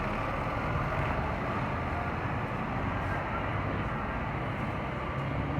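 Scania K360IB bus's diesel engine running steadily as it moves off, a low engine hum under a steady wash of road and traffic noise.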